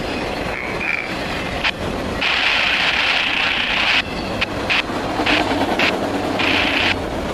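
Freight train of autorack cars rolling past at close range: a steady rumble and clatter of wheels on rail, broken by harsh, high-pitched rasping bursts. The longest burst starts about two seconds in and lasts nearly two seconds, and shorter ones follow.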